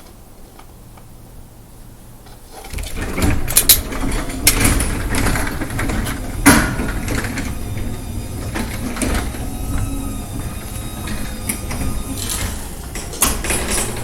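Garage door opener starting about three seconds in and driving a new sectional garage door along its double tracks: a steady mechanical rumble and rattle of the panels and rollers, with a few sharp clunks.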